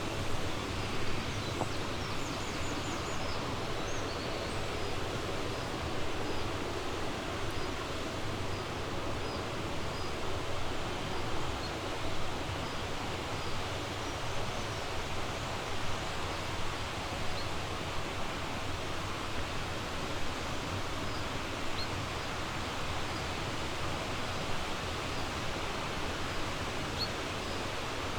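Steady rushing of a flowing river or mountain stream, with short faint high bird chirps now and then.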